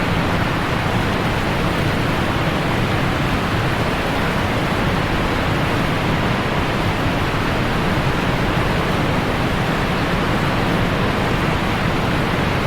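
Waterfall's rushing water, a steady, even roar with no change through the clip.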